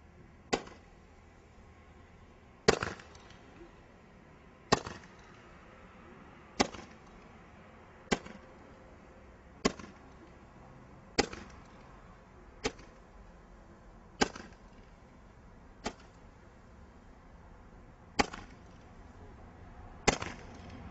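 Fireworks going off: about a dozen sharp bangs, one every one and a half to two seconds, each dying away quickly.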